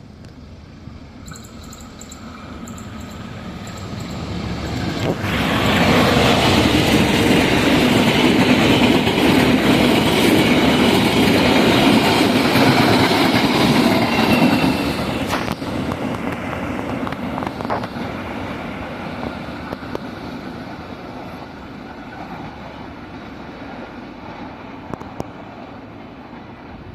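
Indonesian CC203 diesel-electric locomotive and its train passing close by. The noise builds over the first few seconds, comes on sharply about five seconds in and stays loud for about ten seconds. It then drops suddenly and fades away as the train recedes.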